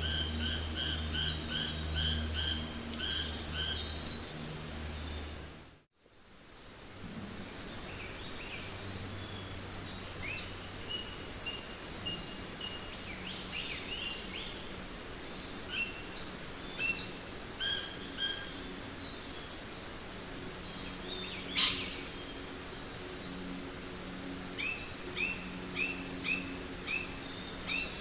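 Jungle ambience of several birds calling: a quick repeated chirping over a low steady hum fades out about six seconds in, then a new stretch of varied chirps and whistles fades in, with one loud sharp call past the middle and a run of short rising notes near the end.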